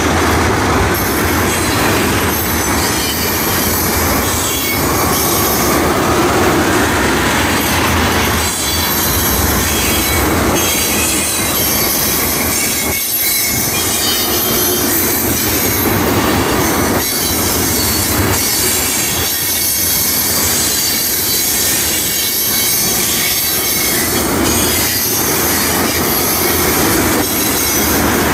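Loaded oil tank cars of a long freight train rolling past close by: a steady rumble of steel wheels on rail, with repeated clacks as the wheels pass over rail joints. The train is gathering speed as it climbs the grade.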